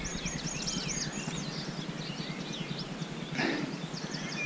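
Small songbirds singing and twittering in quick high chirps, with one short rushing noise about three and a half seconds in.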